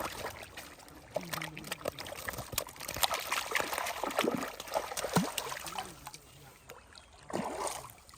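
Water splashing and trickling in irregular spurts, with faint voices under it.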